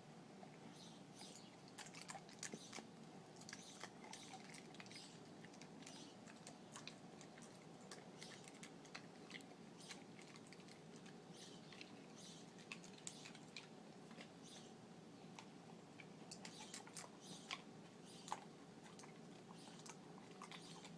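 Dog chewing and crunching candy: faint, irregular crunches and clicks of its jaws working the candy.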